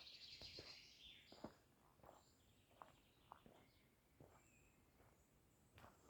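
Faint outdoor ambience: a bird twittering, loudest in the first second and a half, with scattered soft ticks and taps.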